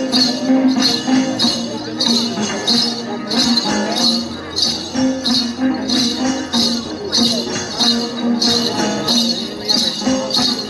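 Music for a Then dance: a cluster of small jingle bells shaken in a steady beat, about two to three shakes a second, over a sustained melody.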